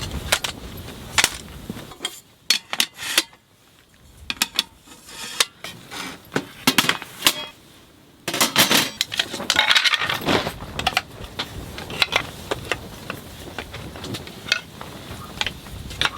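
Camping gear being handled during setup: irregular metallic clinks, clicks and knocks, in scattered clusters.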